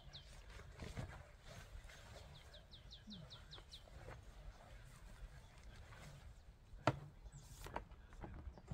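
A small bird's trill of about nine quick, falling chirps, between two and four seconds in, with faint scattered clicks and knocks, one sharper knock about seven seconds in.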